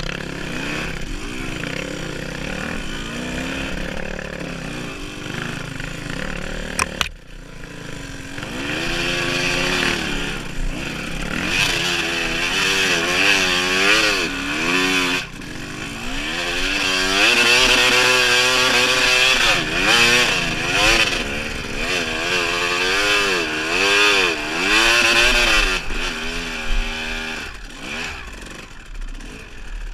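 Dirt bike engine revving up and down again and again as the bike is ridden along a trail, its pitch rising and falling every second or so. The engine drops off briefly with a sharp click about a quarter of the way in.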